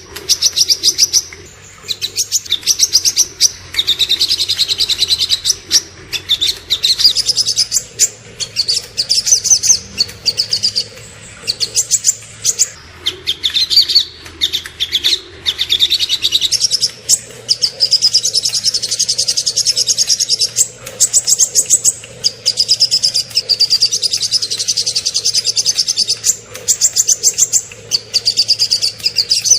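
Small songbirds singing fast, high trills of rapid-fire notes, the 'tembakan' of a masteran tutoring recording. The song comes in phrases of a second or two, one after another with only short breaks.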